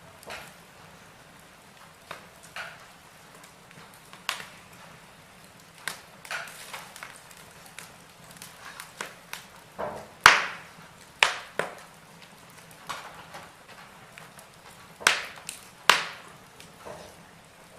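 Wood fire in a fireplace crackling: irregular sharp pops and snaps over a faint steady hiss, the loudest a few pops about ten seconds in and again near the end.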